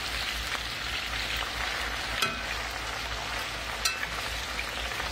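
Sliced potatoes frying in oil in a cast-iron skillet, a steady sizzle, while a metal spatula stirs them and clinks sharply against the pan twice, about two and four seconds in.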